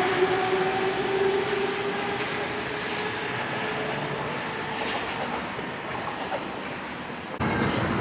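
Electric passenger train running, its traction motors giving a whine that rises slowly in pitch as it gathers speed over the rumble of the ride, then fading. The sound cuts off abruptly near the end.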